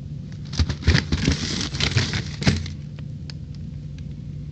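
Frozen food packages being handled: crinkling and light knocks during the first two and a half seconds, over a steady low hum.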